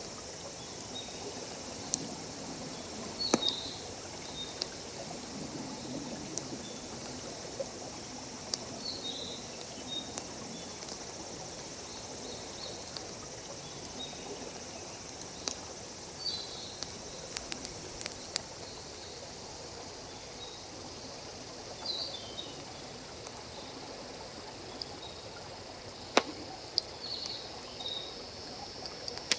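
Wood fire crackling with scattered sharp pops, over the steady hiss of a stream. Short high chirps recur every few seconds.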